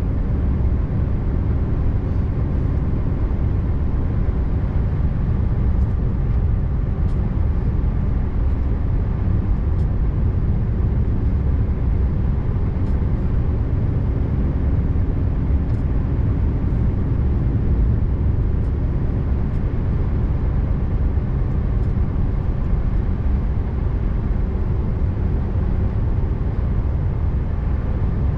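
Scania R590's V8 diesel engine running steadily under way, with a low, even rumble and tyre noise.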